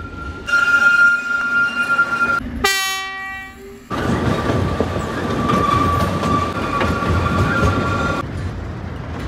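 Oigawa Railway Ikawa Line train: a steady high wheel squeal, then a horn blast of about a second some two and a half seconds in, then the rumble of the running train heard from a carriage window, with a thinner squeal over it until a cut near the end.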